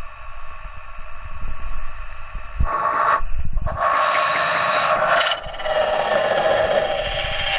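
Homemade cut-off saw with an alloy blade, driven by a 2000 W brushless motor, cutting through iron. The cut breaks off briefly about three seconds in and changes character a little after five seconds.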